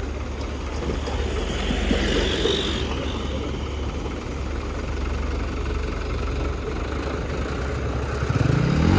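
Heavy vehicle engine idling steadily with a low drone, then revving up near the end.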